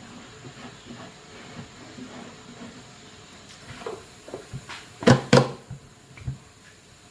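Objects being handled: light knocks and clatter, with two loud sharp knocks about a third of a second apart about five seconds in.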